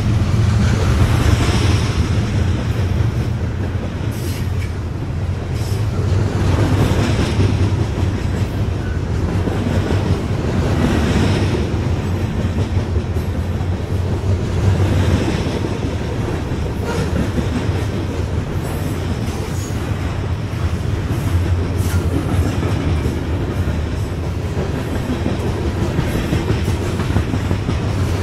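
Freight train of covered hopper cars rolling past close by: a steady low rumble of steel wheels on rail, with a louder clattering surge every few seconds as each pair of wheel trucks goes over the rail.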